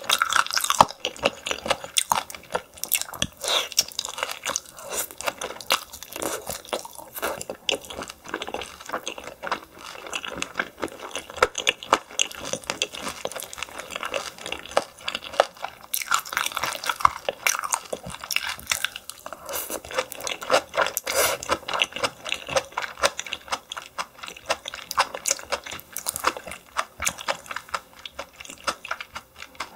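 Close-miked chewing and crunching of steamed yellow stingray and green onions: a dense, irregular run of small wet crunches and mouth clicks with no pauses.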